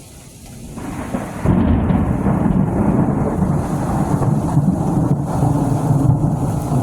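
Thunder rolling in a thunderstorm: a low rumble that swells about a second in, turns loud at about a second and a half and keeps rumbling, with rain falling.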